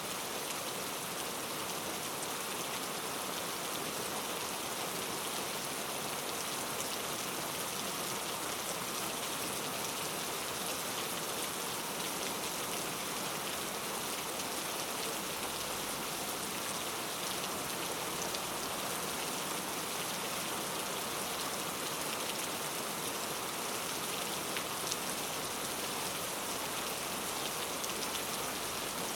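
Steady rain falling on foliage in a rainforest, a dense even hiss with many individual drops ticking through it.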